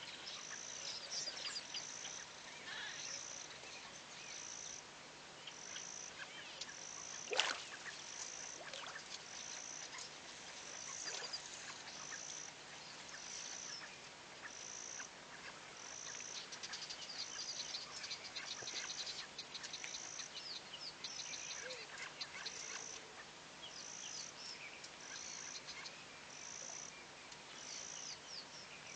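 Natural soundscape of many birds chirping, over a high, even pulsing call that repeats about every second and a quarter. A single sharp click comes about seven seconds in.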